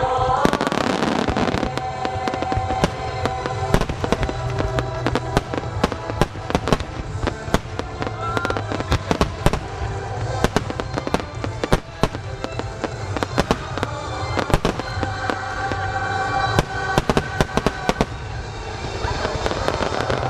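Aerial fireworks shells by Marugo bursting in a rapid, dense barrage of sharp bangs and crackles, many overlapping, with music playing underneath.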